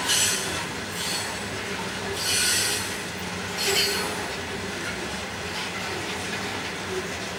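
Three XRN-class diesel-electric locomotives hauling a loaded coal train past at a distance: a steady engine drone with wheel-on-rail noise. Three short hissing surges come in the first four seconds.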